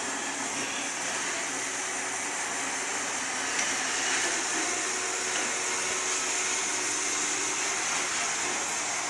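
Roomba robot vacuum running with a steady whir.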